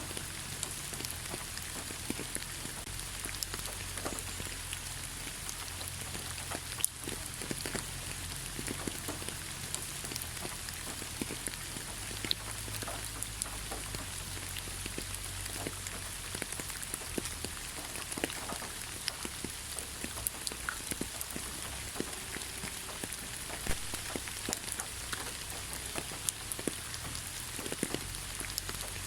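Steady gentle rain falling on leaves, with many separate drops pattering close by and a louder single drop about seven seconds in.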